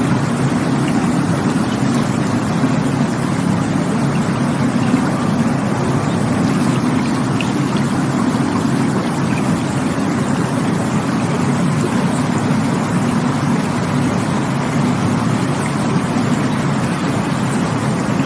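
Rushing water running steadily, a deep, even rush without breaks or changes.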